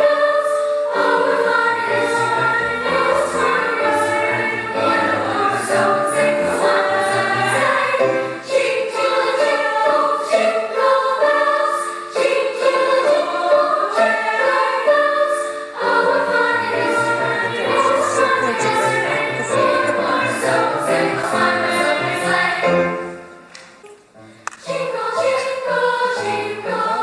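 School choir singing a holiday piece with accompaniment, over a steady run of sharp taps. The music drops away briefly near the end, then resumes.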